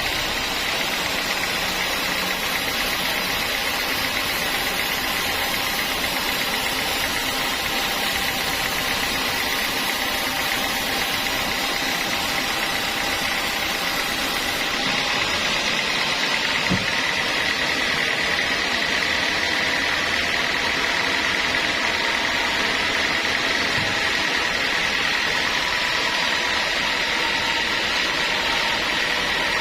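Sawmill saw running steadily through a large log: a constant hiss of cutting under a steady high whine, which grows a little stronger about halfway through.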